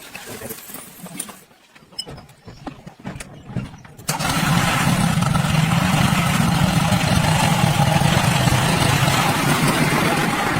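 Light clicks and knocks, then about four seconds in a loud motor starts abruptly and runs steadily with a low hum.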